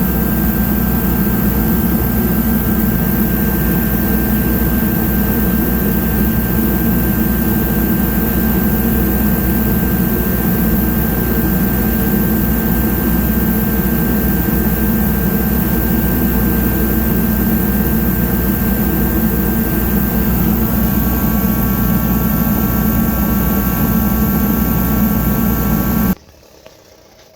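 DeWalt DXH140KTH 140,000 BTU kerosene torpedo heater running steadily, its blower and burner making a loud, even noise with a faint steady whine. It shuts off suddenly near the end as the thermostat reaches its 71-degree set point, a sign that the rerouted thermostat wire now reads correctly.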